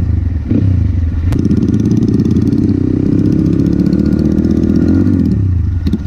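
Motorcycle engine running while riding, its note dropping briefly and picking up again about half a second in and again near the end. There is one sharp click a little over a second in.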